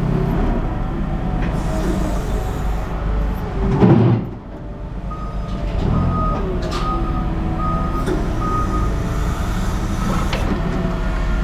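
A heavy vehicle's engine running with a steady low rumble, surging loudly for a moment about four seconds in. Just after, a reversing alarm beeps about half a dozen times, evenly spaced.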